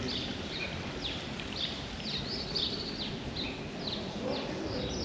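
Birds chirping in a quick series of short, high chirps that slide downward in pitch, over a steady low background noise.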